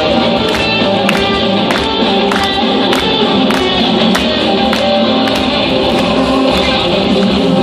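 Instrumental rock played live: a sustained electric-guitar lead over a full band backing with a steady beat.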